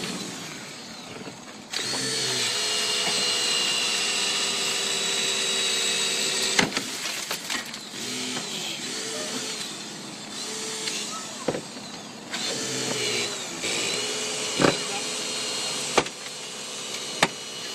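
Hydraulic rescue tool (Jaws of Life) and its power unit running steadily, the pitch dipping and recovering several times as the tool works under load, with several sharp cracks over its running.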